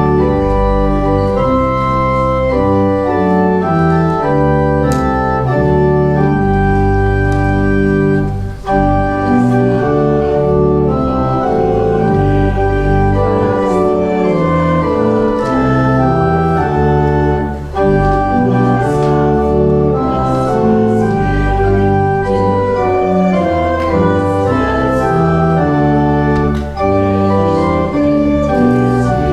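Church organ playing a hymn tune in sustained full chords that change about every second, with a brief break between phrases roughly every nine seconds.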